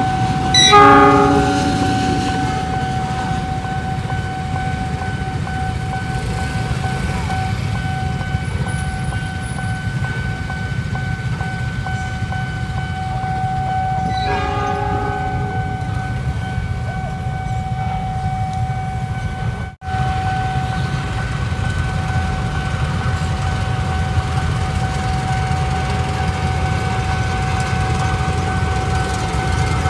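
A train rumbling past a level crossing, with a steady high warning tone from the crossing signal sounding throughout. A short train horn blast sounds about a second in and a fainter one about halfway through. The sound cuts out for a moment about two-thirds of the way through.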